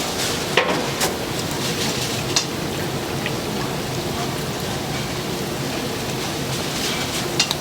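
Hot oil sizzling steadily as doughnuts deep-fry, with a few short sharp knocks, the loudest about half a second in and again near the end.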